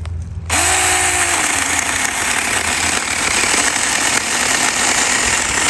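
Saker mini cordless electric chainsaw running and cutting through wood, a loud steady buzz that starts abruptly about half a second in.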